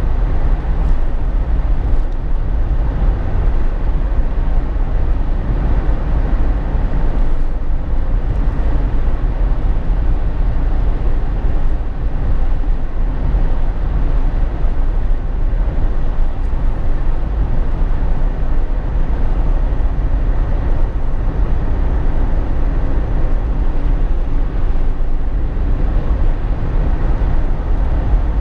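Steady cabin noise inside a Jeep Wrangler JK on the move: a deep, even rumble of engine, tyres and wind with no change through the stretch.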